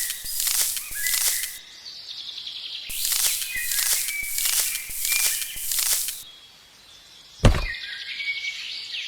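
Rhythmic scraping strokes, about one and a half a second, in two runs with a pause between them. Birds chirp in the background, and one sharp thud comes about three quarters of the way through.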